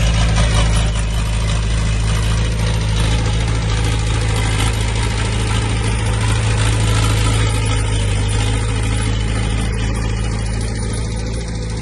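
Diesel engine of a heavy earthmoving machine running steadily at a low, even pitch, easing off slightly near the end.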